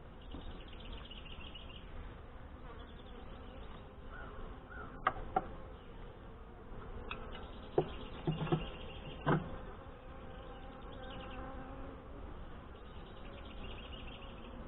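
Honey bees buzzing around an open hive, a steady hum, with a few sharp knocks and clicks midway as the hive's wooden frames and parts are handled.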